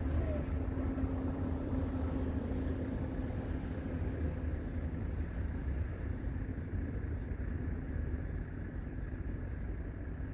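Strong wind buffeting the microphone: a steady low rumble with a hiss over it.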